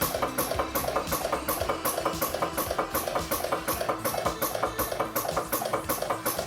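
Home-built flame-licker vacuum engine running, its valve and piston clacking in an even rhythm of about four to five beats a second.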